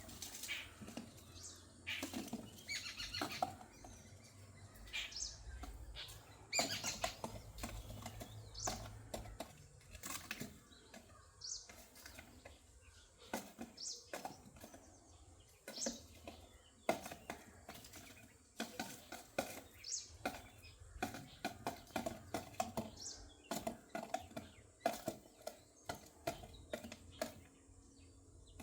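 Birds flapping their wings and moving about, with many short scattered flutters and clicks and brief high chirps among them.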